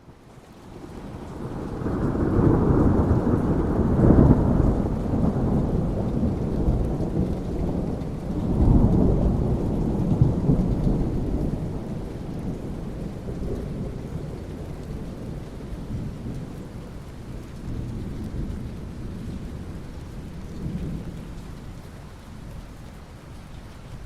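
Rolling thunder over steady rain. The deep rumble swells up over the first couple of seconds, peaks, surges again about nine seconds in, then slowly dies away while the rain keeps falling.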